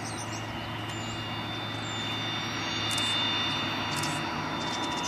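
Airplane taxiing by with its engine running steadily: a thin high whine over a low hum, swelling slightly midway.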